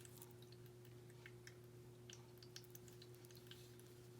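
Near silence with faint, irregular light clicks and ticks of small beads and their packets being handled, over a steady low electrical hum.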